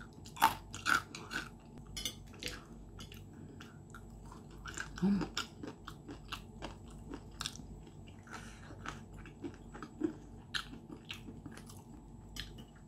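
Close-up chewing of crispy battered fried chicken cartilage: an irregular run of crunches and crackles as the crisp coating and the gristly cartilage are bitten and chewed.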